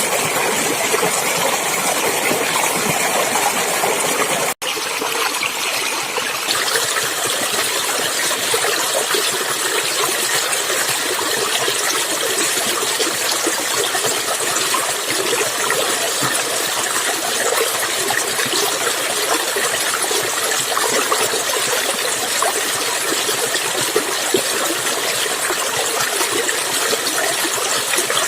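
Running water flowing and splashing, a steady rushing hiss. The sound cuts out for an instant about four and a half seconds in, then carries on as before.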